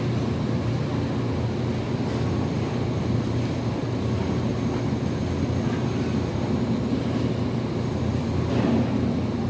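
A steady low rumble, like an engine or machine running, with no clear breaks.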